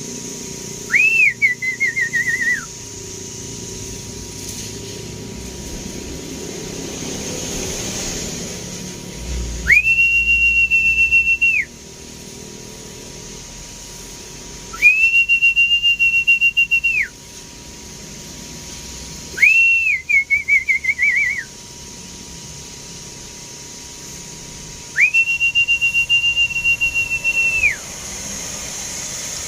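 High whistles repeated about every five seconds: long steady notes that rise at the start and drop off at the end, alternating with notes that break into a quick warble.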